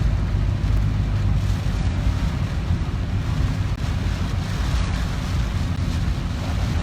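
Steady rumble and hiss inside a car driving through typhoon rain, its tyres running through water standing on the road.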